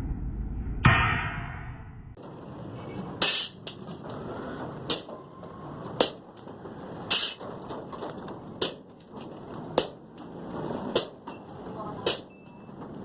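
Hammer blows on steel as rebar is cut by hand: sharp, ringing strikes about once a second, some eight or nine in all.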